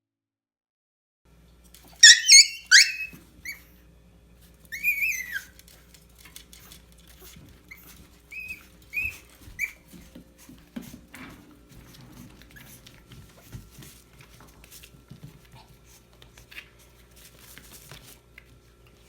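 A dog whining in high-pitched squeaky cries: a cluster of loud whimpers about two seconds in, another around five seconds, then three short ones a few seconds later, over a faint steady room hum.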